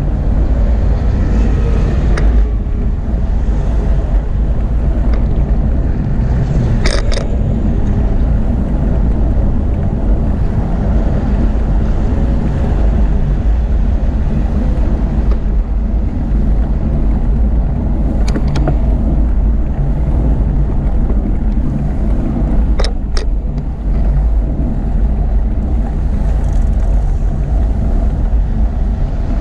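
Steady low rumble of wind on the microphone and road noise while riding a bicycle, with a few sharp clicks or rattles.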